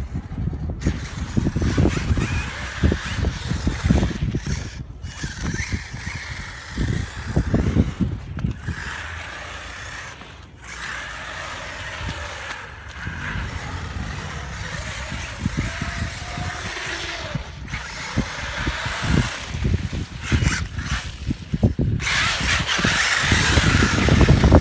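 Wind buffeting the microphone in gusts of low rumble, with the brushless electric motors of RC monster trucks whining faintly through it, rising and falling with the throttle.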